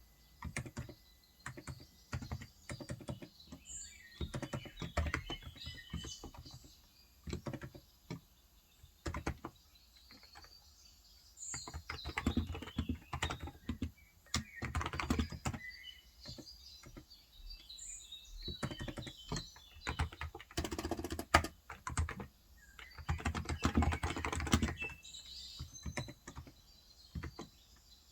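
Typing on a Cox Endeavor electro-capacitive tenkeyless keyboard with 35 g switches, in bursts of quick keystrokes broken by short pauses. A few short bird chirps sound faintly above the typing.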